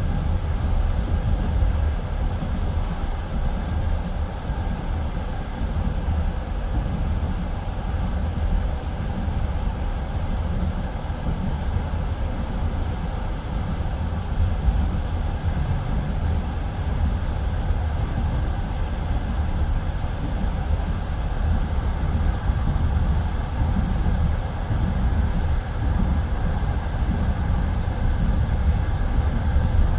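Passenger train carriage rolling at speed: a steady low rumble of wheels on rails, heard from inside the car.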